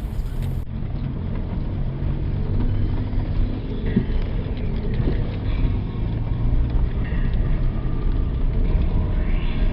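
Low, steady rumble of a running vehicle.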